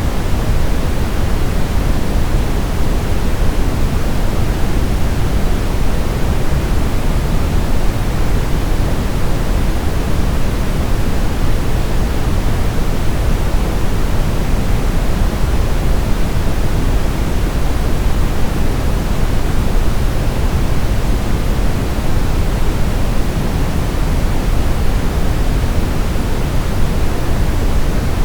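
Steady brown noise: a deep, even rushing hiss, strongest in the bass, with no change throughout.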